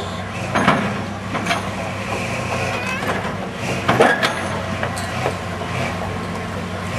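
1990 Ford Ranger 4x4's engine running at low revs, with several sharp clunks from the truck, the loudest about four seconds in.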